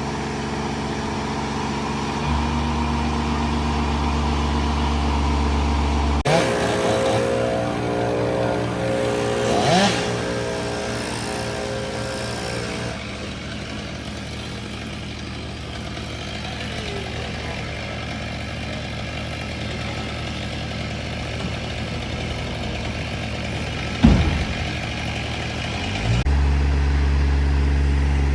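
Heavy machine engine running steadily, its note changing abruptly a couple of times, with one sharp knock near the end.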